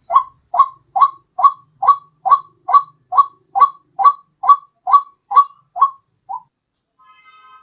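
White-breasted waterhen (ruak-ruak) call played as a bird-lure recording: a string of about fourteen short, loud, rising notes, a little over two a second, that stops about six and a half seconds in. A faint steady tone follows near the end.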